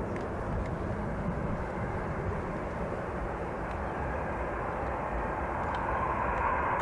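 Turboprop airliner's engines and propellers, a steady rushing drone that grows louder near the end.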